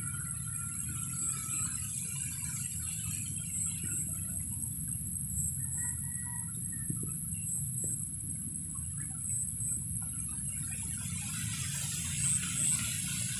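Rural outdoor ambience. Birds call now and then over a steady high-pitched hum, with repeated faint high chirps and a low background rumble.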